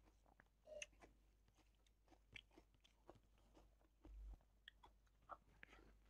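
Faint chewing and small clicking mouth sounds of a person eating, with a brief low bump about four seconds in.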